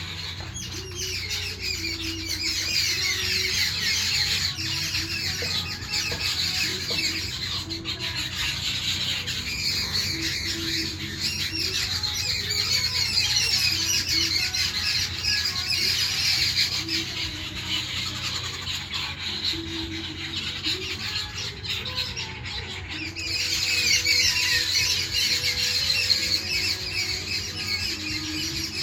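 A crowd of birds squawking and chattering at once in a dense, unbroken tangle of harsh, high calls, as in a territorial squabble. The calling swells three times: at the start, in the middle and near the end.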